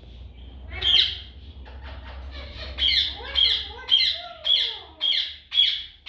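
Parrots giving loud, harsh squawking calls: one about a second in, then a steady run at about two calls a second.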